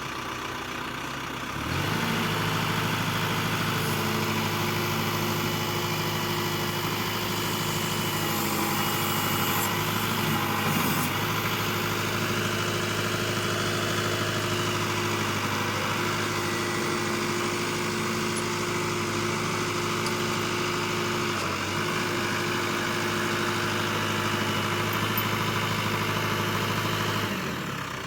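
New Holland TC55DA compact tractor's diesel engine running steadily just after start-up. It gets louder about two seconds in and drops back just before the end.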